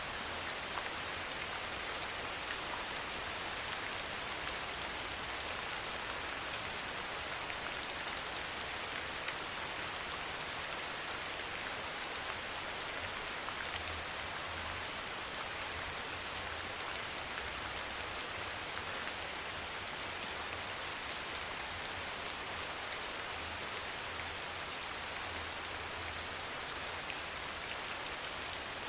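Steady, soft rain falling, an even hiss with faint scattered drop ticks.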